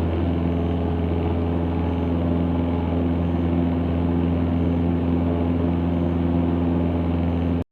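Cessna 162 Skycatcher's four-cylinder Continental O-200 engine and propeller running steadily, heard from inside the cockpit as an even drone. It cuts off abruptly near the end.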